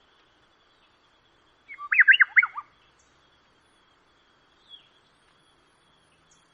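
A songbird sings one short, quick phrase of about six falling notes about two seconds in, then gives a single faint note near the end.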